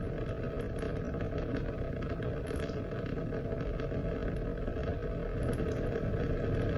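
Steady rain, a continuous deep rushing wash with faint scattered drip-like ticks on top.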